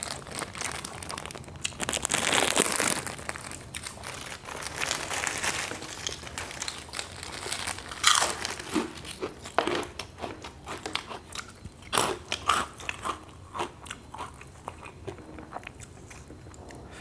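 Close-up crunching and chewing of crispy crackers taken from a plastic bag, with the bag crinkling. Dense crunching for the first few seconds, then separate sharp crunches in the second half.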